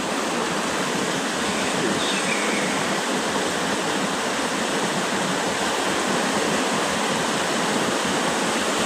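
Water rushing steadily, as in a fast stream or small waterfall.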